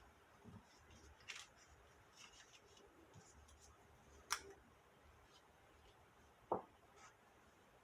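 Cardstock being handled and folded: faint paper rustles and light clicks, with one sharp click a little past halfway and a soft knock near the end.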